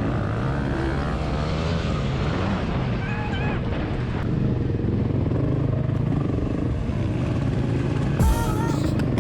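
Motorcycle engine running at a fairly steady speed. Two brief wavering pitched sounds stand out, about three seconds in and near the end.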